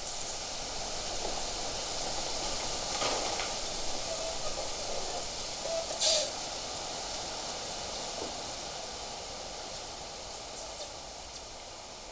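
Wind blowing steadily through trees and brush, with a short, loud gust-like burst about six seconds in.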